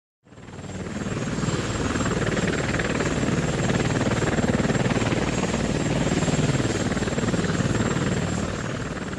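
VM-4 Dzhmil light helicopter, with two piston engines, running: a steady rapid rotor chop with a thin high whine over it. It fades in just after the start and tapers near the end.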